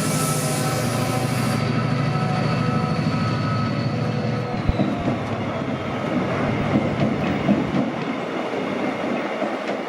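A train moving through the station: a steady low engine drone with a brief hiss of air near the start, then its wheels clattering and knocking over rail joints and points from about halfway, with a thin wheel squeal.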